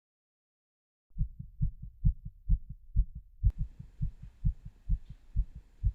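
Heartbeat sound effect: low double thumps at a fast pulse of about two beats a second, starting about a second in. A faint hiss joins about halfway through.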